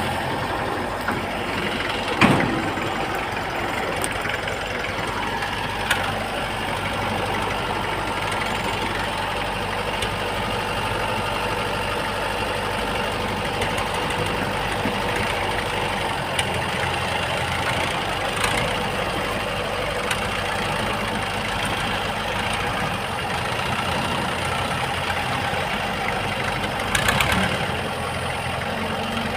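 Engine of a tractor-type machine running steadily at low speed, with a sharp knock about two seconds in and a short clatter near the end.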